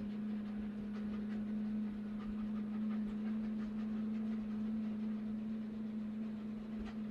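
A person humming one long, steady low note at an even level, rising very slightly in pitch and stopping near the end.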